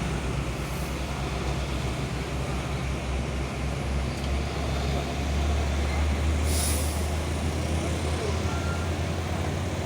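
Heavy diesel vehicle engine rumbling as it passes close, getting louder around the middle, with a brief hiss of air about two-thirds of the way through.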